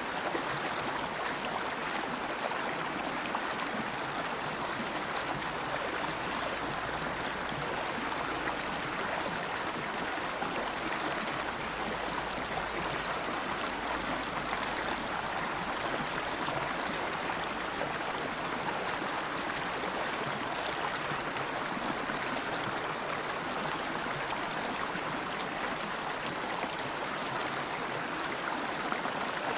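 River water flowing steadily over stones, an even rushing and gurgling.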